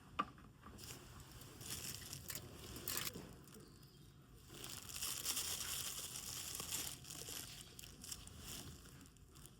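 Crinkling and rustling in several bursts, the longest in the middle, after a sharp click just after the start.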